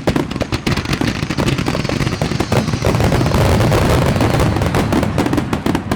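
Finale barrage of aerial fireworks over the sea: many shells bursting in rapid succession, the bangs running together into a continuous rumble that peaks mid-way and thins to separate bangs near the end.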